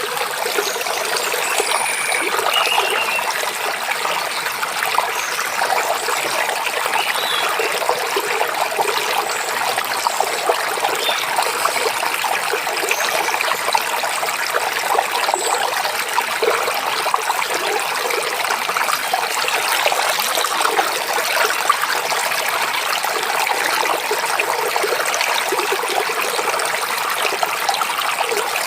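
Forest stream babbling and trickling steadily, with a few faint, brief bird chirps now and then.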